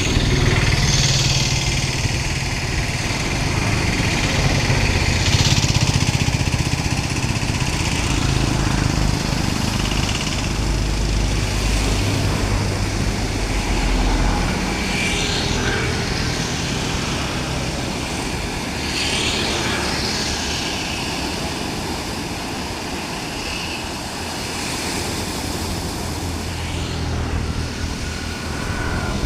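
Motor engine running steadily with a low hum that steps in pitch now and then, most likely a fishing boat's engine, with a hiss of wind or water over it.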